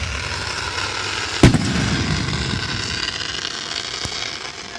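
Fireworks going off: a steady hiss with one sharp, loud bang about a second and a half in, the hiss fading toward the end.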